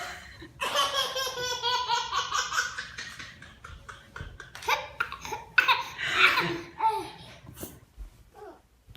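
Baby laughing: a long run of quick laughs from about half a second in, then shorter bursts of laughter later on.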